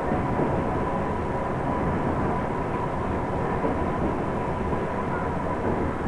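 Passenger train running along the track, heard from inside the coach as a steady noise of wheels and carriage, with a thin steady whine over it.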